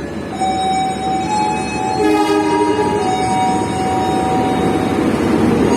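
Train horn sounding in long held tones over the steady rumble of a train running, a louder, lower horn chord coming in about two seconds in.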